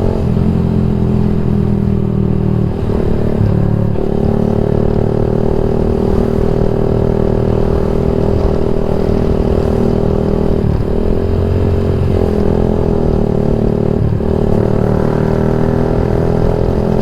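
Yamaha MX King 150's single-cylinder four-stroke engine running under way through an aftermarket Rob1 TGA exhaust. Its note holds steady, then drops and climbs back about three times, as the throttle or gear changes.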